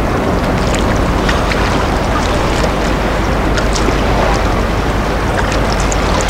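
Steady rush of wind and surf, with a low hum underneath.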